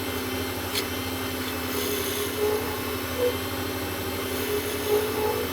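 WEN lathe motor running with a steady hum while a turning tool scrapes the spinning acrylic pen blank, with short intermittent cutting sounds and one sharp click about a second in.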